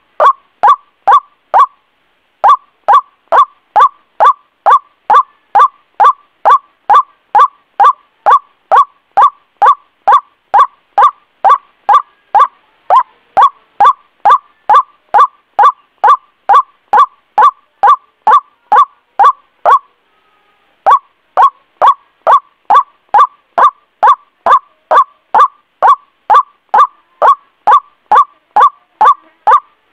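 White-breasted waterhen (ruak-ruak) calling, a lure recording: short honking notes repeated about three times a second in a fast, even series, with brief breaks about two seconds in and about twenty seconds in.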